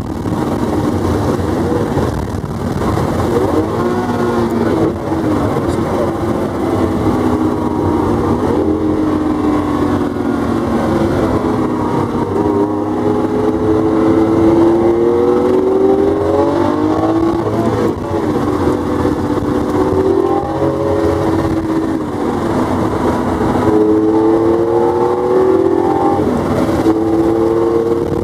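Lamborghini Aventador SV's V12 engine heard from inside the cabin under hard driving, its note climbing in pitch and dropping back at gear changes several times.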